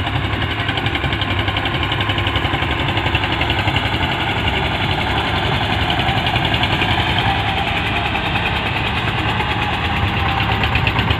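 Eicher 241 tractor's single-cylinder air-cooled diesel engine running with an even, rapid beat, getting a little louder near the end.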